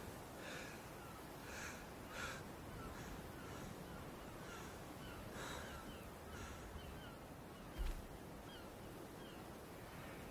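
Faint bird calls: a few caw-like cries among many quick, small falling chirps, with a soft low thump about eight seconds in.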